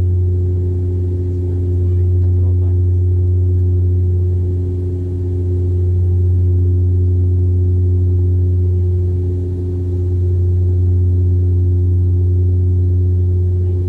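Cabin drone of a de Havilland Canada Dash 8 Q400's six-blade propellers: a loud, steady low hum with a few overtones above it, swelling and fading slowly about every four to five seconds as the two propellers beat against each other.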